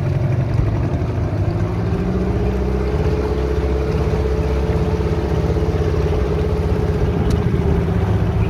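A dinghy's new outboard motor running under way. The engine note rises a little about two seconds in and then holds steady.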